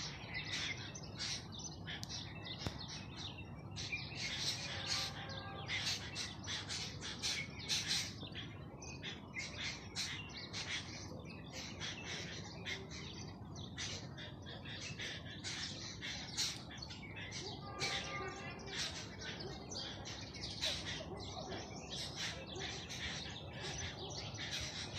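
Birds chirping: many short, high calls in quick succession, over a faint, steady low background hum.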